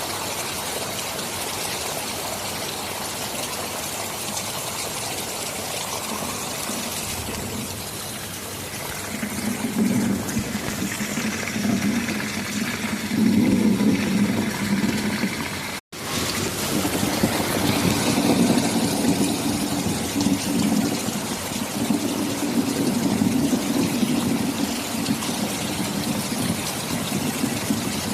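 Steady heavy rain hiss, joined about nine seconds in by a long, low rolling rumble of thunder that swells and carries on to the end. The audio cuts out for an instant just past halfway, then the rain and rumble resume.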